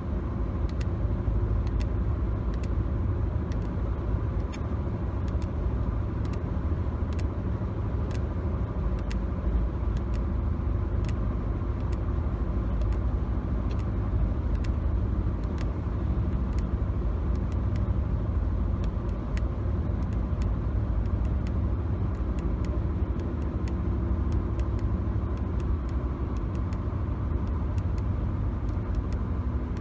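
Steady road rumble inside a moving car's cabin, with frequent light taps on the car's interior surfaces scattered throughout.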